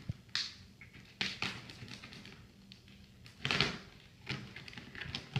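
A taped cardboard box being cut and pulled open: a string of short scrapes, tears and knocks, the loudest a rasping tear about three and a half seconds in.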